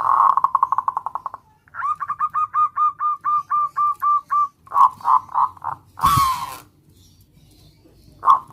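Zebra dove (perkutut) calling in a series of short cooing notes. It starts with a quick rapid run, then gives an even string of about five notes a second, then more pulsed notes and a louder, rougher call about six seconds in.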